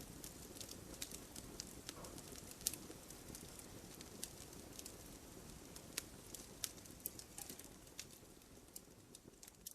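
Wood fire crackling in a fireplace: scattered sharp pops and snaps over a soft, steady low rush of the flames.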